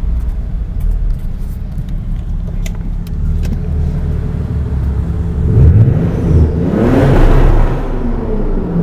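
A car engine rumbling low, then a car accelerating hard past the microphone about six to seven seconds in. Its engine note drops as it moves away.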